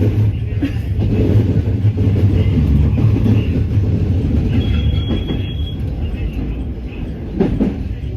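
Train running on the rails: a steady low rumble of wheel and track noise, with a brief thin high whine for about a second near the middle.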